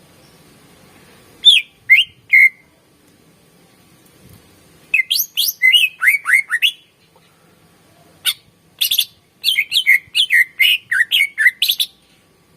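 Greater green leafbird (cucak ijo) singing loudly. Three sharp notes are followed by two rapid runs of quick, falling whistled notes, separated by short pauses.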